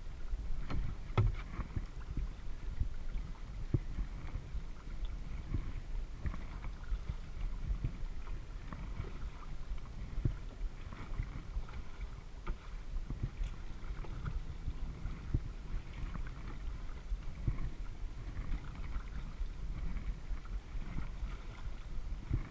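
Kayak being paddled: water splashing and lapping at the hull, over a steady low rumble, with scattered knocks.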